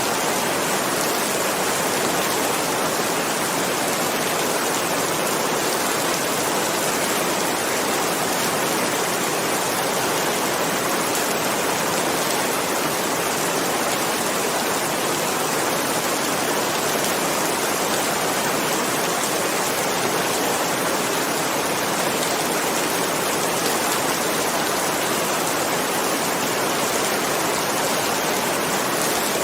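Heavy rain falling steadily, an even dense hiss with no thunder and no change in strength.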